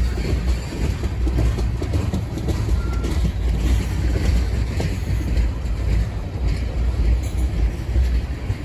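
Freight train cars rolling past: a steady, loud low rumble of steel wheels on the rails.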